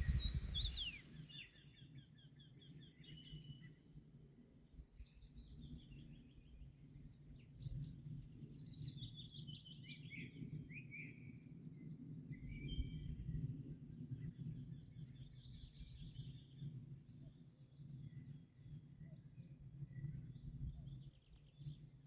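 Songbirds singing: a run of trilled and chirping song phrases, some sliding down in pitch, over a steady low rumble. A louder hiss fades out in the first second or two.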